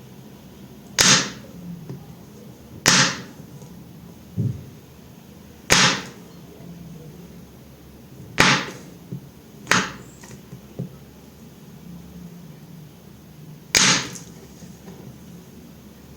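A knife cutting through a bar of soap: six sharp, crisp slices at uneven intervals, with a few fainter knocks in between.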